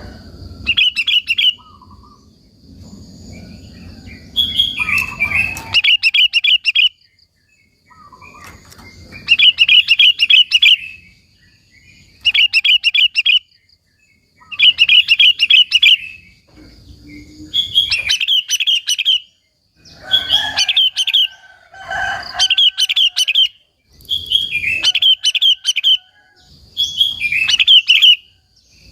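Sooty-headed bulbul (kutilang) singing, repeating short, bubbly phrases of rapid warbled notes about every two seconds, around ten phrases in all.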